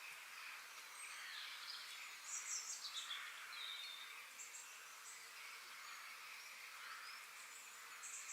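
Birds chirping and singing over a steady high background hiss. The loudest part is a quick run of falling chirps a little over two seconds in.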